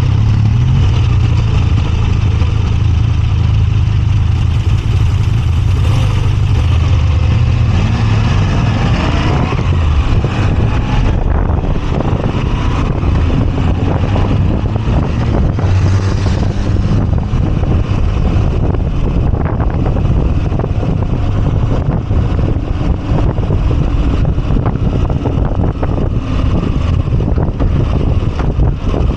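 Moto Guzzi V85TT's air-cooled transverse V-twin engine running under way, steady at first, then rising in pitch for a moment about eight seconds in as it accelerates, and after that running rougher and more unevenly.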